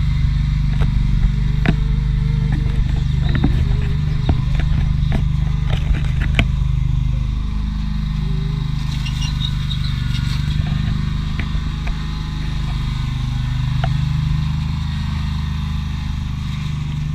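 Small tractor engine running steadily, with scattered clicks and clatter over the first several seconds.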